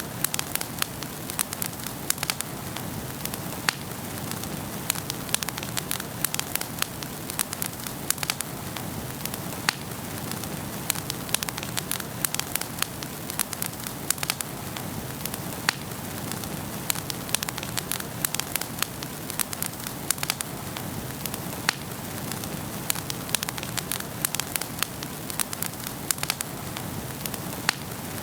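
Wood fire burning in a fireplace, crackling and popping irregularly over a steady hiss of flames.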